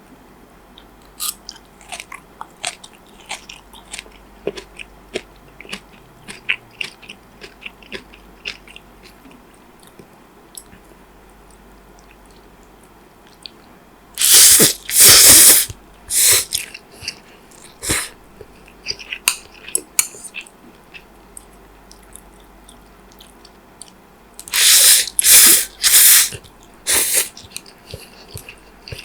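Close-miked eating: soft, wet chewing clicks, then two runs of loud crunching bites, one about halfway through and one near the end.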